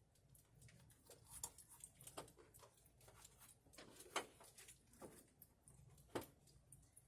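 Faint, irregular clicks and taps, with two sharper knocks about four and six seconds in.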